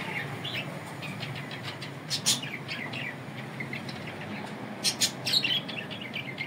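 Small birds chirping, quick falling chirps coming in clusters about two and five seconds in, over a steady low hum.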